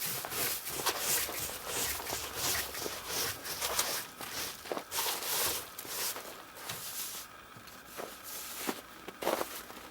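Footsteps crunching and scuffing at a walking pace, easing off near the end, followed by a few sharp clicks.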